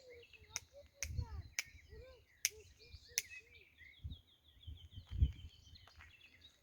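Several wild birds singing and calling in woodland: short arching low notes, then a rapid high trill in the middle. Sharp clicks come in the first half, and there are a few soft footfalls.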